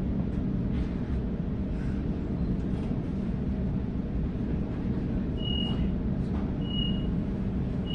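Interior of a Sydney Trains Waratah electric train carriage in motion: a steady low rumble of the train running, with a few faint clicks. In the second half there are three short high beeps about a second apart.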